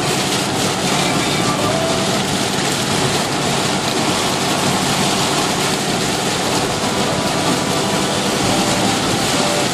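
Steady noise inside a moving car's cabin on a rain-soaked highway: tyres hissing on the wet road, with rain on the car and the engine beneath.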